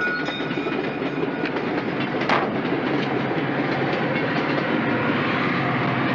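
Passenger train passing close by: a steady rumble and clatter of wheels over the rails, with one sharp clank about two seconds in.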